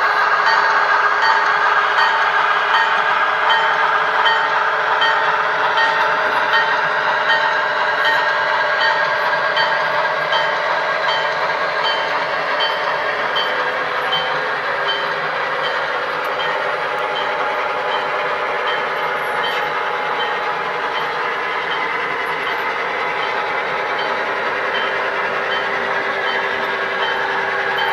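HO scale model train running on the layout, its sound-equipped locomotive playing a steady diesel engine sound with a small regular pulse about every second. The sound eases off slightly partway through.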